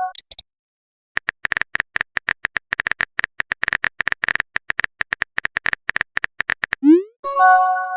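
Phone keyboard click sound effects tapping out a message in quick, irregular taps for several seconds. Near the end comes a rising swoosh and then a short chime, the message-sent sound.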